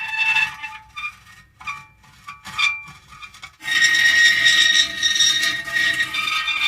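Metal creaking: drawn-out, squealing creaks of steady pitch. Short squeaks come in the first half, then a loud long creak starts a little past halfway.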